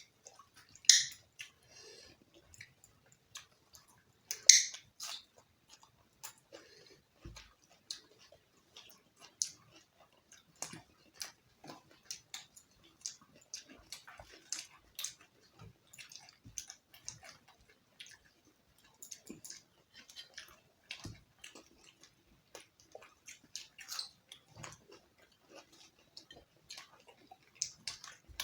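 Close-up eating sounds of a person eating roti with chicken curry: chewing and small wet mouth clicks come irregularly throughout. Two louder, hissy bursts come about one and four and a half seconds in.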